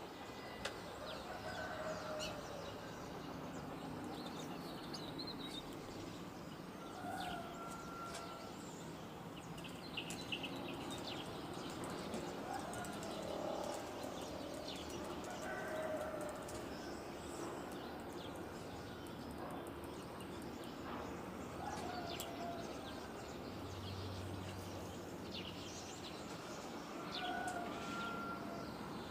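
Birds calling outdoors: a short, lower-pitched call phrase repeats about every four to six seconds, with scattered brief high chirps between, over a steady background hiss.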